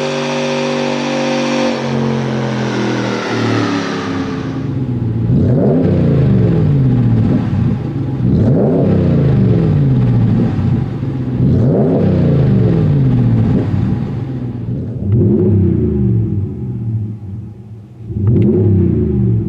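2019 Ram 1500's 5.7-litre Hemi V8 through a Flowmaster FlowFX cat-back exhaust with a straight-through muffler. A steady engine note settles lower over the first few seconds. Then the engine is revved five times, about every three seconds, each rev climbing quickly and falling back.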